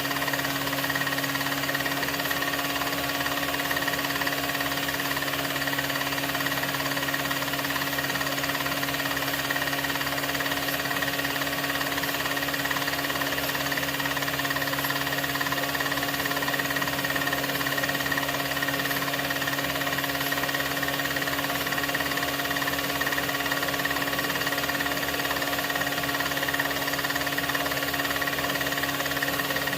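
A 16mm film projector running steadily: a constant mechanical hum with a fast, even flutter underneath.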